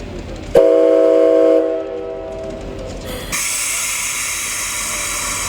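A steam locomotive whistle gives one short blast of about a second, a chord of several steady tones that starts sharply and then fades. A couple of seconds later a loud, high hiss of blown-off pressure starts and keeps going.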